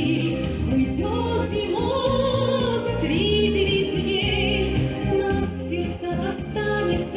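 A woman singing a sustained melody with vibrato over instrumental accompaniment.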